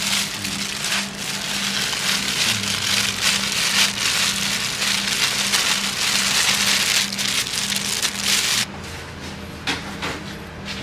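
Food frying in hot oil: a steady sizzle with fine crackling that cuts off suddenly near the end.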